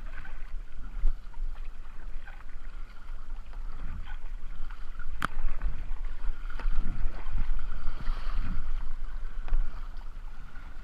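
Kayak on moving river water: paddle strokes and splashing over a steady low rumble, with one sharp knock a little past the middle.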